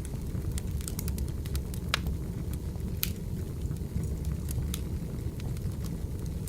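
Wood fire burning: a steady low rumble with scattered sharp crackles and pops from the burning logs, the loudest pops about two and three seconds in.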